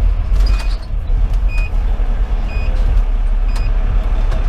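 Cab-interior rumble of a fire engine's Detroit Series 60 diesel, steady and low. Over it a short, high-pitched beep repeats about once a second.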